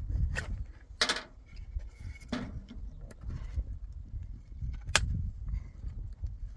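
Four short, sharp knocks at irregular intervals over a low steady rumble.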